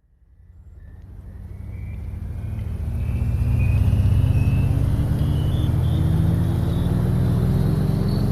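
Car engine fading in and running, its pitch slowly rising, with a thin whine above it that also climbs.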